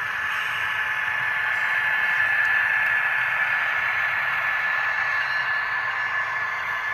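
HO scale model train running on the layout: a steady whirring hiss with a thin high whine, swelling slightly a couple of seconds in and then easing off.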